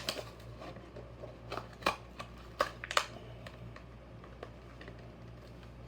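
Diecast car packaging being handled and turned over: a sharp click at the start and a few more sharp clicks and crinkles in the first three seconds, then only a low steady hum.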